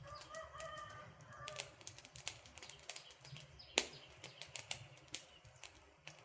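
Wood campfire crackling with quick, irregular pops and snaps, one sharp loud pop near four seconds in. A faint wavering whistle sounds for about the first second and a half.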